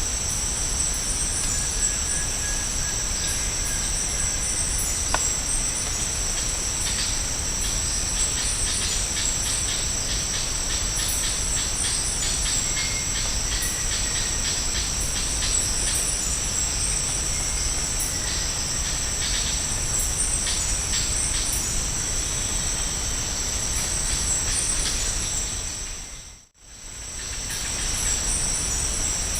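Tropical rainforest insect chorus: a steady high-pitched drone, with a rapid run of pulsing chirps over the middle of the stretch and a few faint short bird whistles. Near the end everything briefly fades out and comes back.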